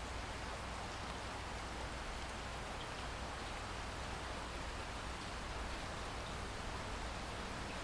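Steady rain falling, an even hiss without distinct drops, with a low rumble underneath.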